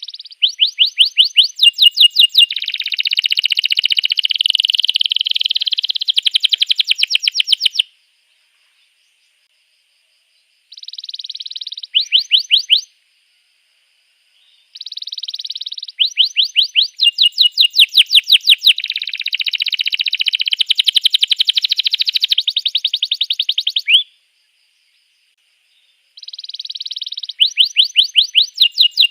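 Domestic canary singing: phrases of rapid sweeping notes, about five a second, alternating with buzzy rolling trills, with clean gaps of about two seconds between phrases.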